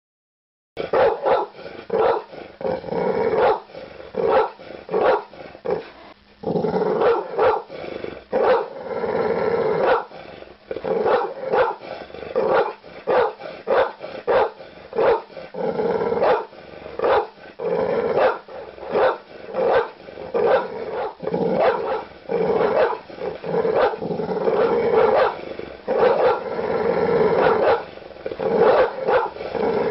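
Large dog barking aggressively: deep, rapid barks in quick runs with hardly a pause. It starts just under a second in, and there are longer unbroken stretches of barking and growling.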